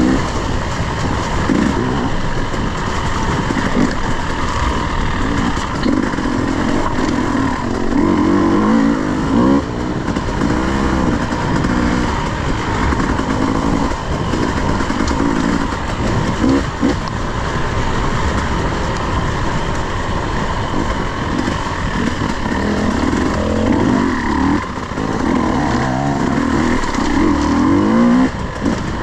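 Enduro dirt bike engine ridden hard on a trail, its revs rising and falling again and again as the throttle is worked.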